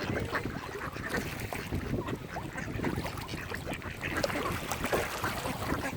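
Mallard ducks quacking, many short calls overlapping, over a constant low rumble.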